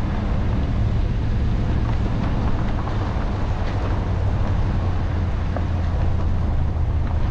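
Truck driving slowly on a rough dirt backroad: a steady low engine and road drone with a few faint knocks.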